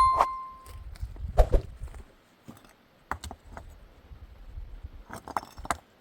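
Light metallic clinking and jingling in scattered clusters, after a single ringing metal note that fades out within the first second.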